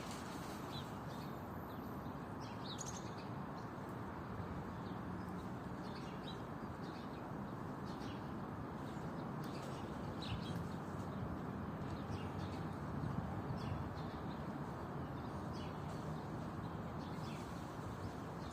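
Small birds chirping in short, scattered calls throughout, over a steady low outdoor background hum.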